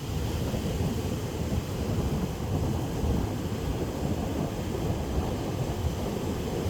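Wind buffeting the microphone: a steady low rumbling rush that flutters constantly.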